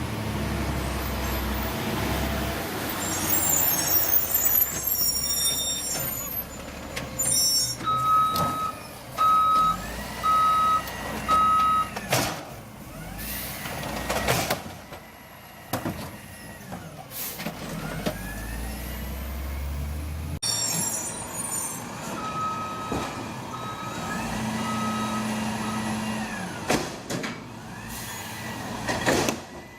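Garbage truck's diesel engine running, with high squealing early on. Its reverse alarm beeps four times, about one beep a second, and again later in the same way. Air brakes give several sharp hisses.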